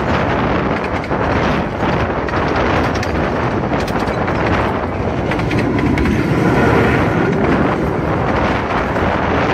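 Miniature-railway carriage running along the line, heard from the carriage window: a steady, loud running noise of wheels on track. A faint steady tone sounds for about two seconds around the middle.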